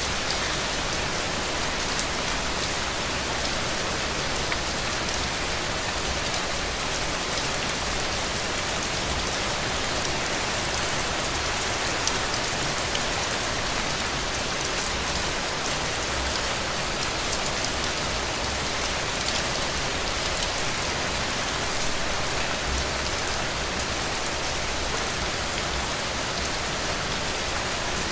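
Steady heavy rain, a dense even hiss with countless fine drop ticks, falling on a roof.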